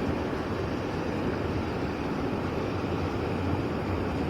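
Mountain stream water rushing steadily, an even unbroken roar of flowing water.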